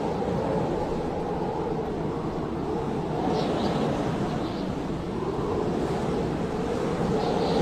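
Blizzard wind blowing steadily with a low, rushing howl, with faint higher whistles of gusts about three seconds in and near the end.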